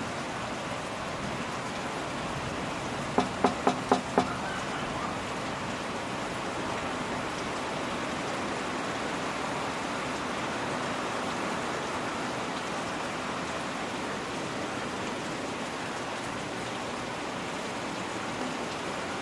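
Steady rain hiss, broken about three seconds in by five quick, sharp knocks in a row.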